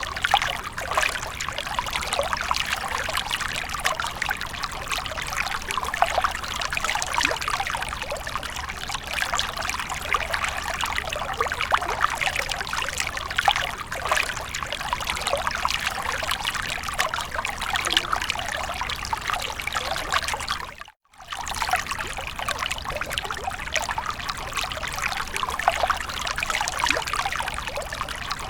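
Water fountain running, a steady dense splashing and trickling of falling water. It cuts out completely for about half a second some two-thirds of the way through, then resumes unchanged.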